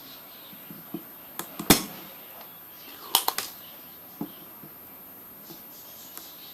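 A handful of sharp clicks and knocks of hard objects being handled, over a faint steady hiss. The loudest comes just under two seconds in, followed by a quick run of three a little after three seconds and a single one past four seconds.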